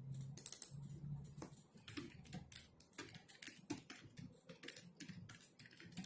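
Typing on a computer keyboard: a quick, irregular run of soft key clicks, several a second.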